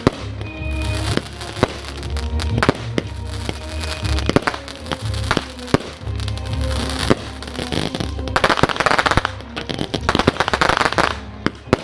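Fireworks going off in quick succession, sharp bangs over a music soundtrack, with bursts of dense crackling about eight seconds in and again near the end.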